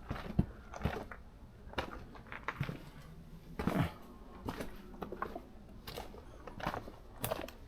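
A hiker's footsteps on a rocky mountain trail: irregular crunches and scuffs of boots on rock and grit, a step every second or so.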